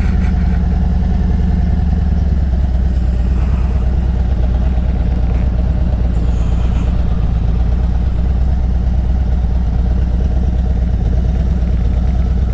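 Motorcycle engine idling steadily with an even, unchanging low beat while the bike is stopped.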